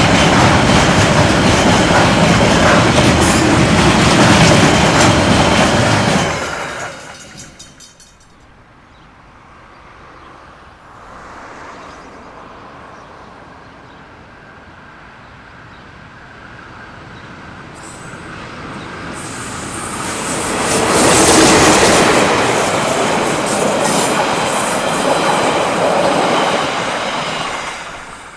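A train passing close by, its wheels running loudly on the rails. About seven seconds in it drops away to a quieter rumble, then builds again and passes loudly through the last third before falling away near the end.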